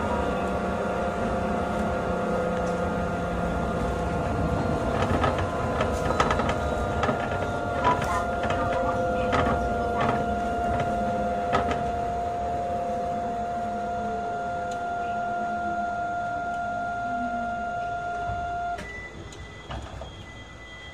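Astram Line 6000-series rubber-tyred guideway train running, with a steady whine and a lower motor tone gliding downward in pitch as it slows, plus scattered clicks and knocks. About 19 s in, the whine cuts off and the sound drops away as the train comes to a halt.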